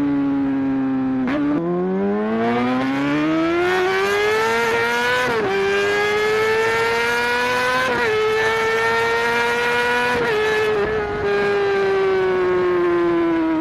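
A high-revving engine pulling hard, its pitch climbing steadily and dropping suddenly several times as it shifts gear, then slowly falling off near the end.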